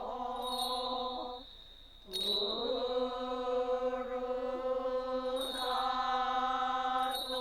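Buddhist chanting: voices intoning long held notes on one steady pitch, breaking off about a second and a half in and resuming about half a second later.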